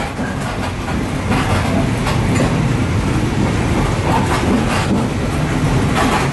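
Passenger train running along the track, heard from inside the carriage: a steady rumble of wheels on rail with a few faint clicks.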